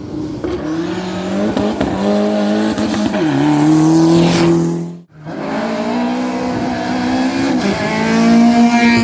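Rally car engine under load, pulling hard; about three seconds in its pitch drops at a gear change and then holds. After a brief cut, the engine runs again with its pitch climbing steadily near the end.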